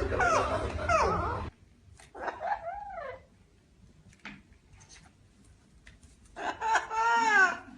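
Animal calls in separate bouts: wavering cries that stop abruptly about one and a half seconds in, a single rising-then-falling cry soon after, then a quiet stretch with a few faint clicks, and a quick string of arching cries near the end.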